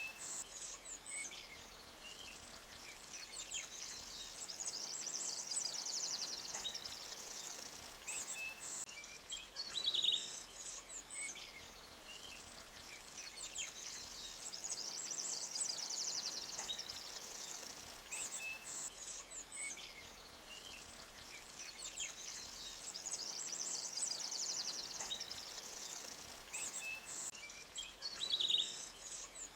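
Forest stream ambience: faint running-water hiss under scattered bird chirps and a high, rapid trill that swells and fades. The same pattern comes round about every ten seconds, as in a looped recording.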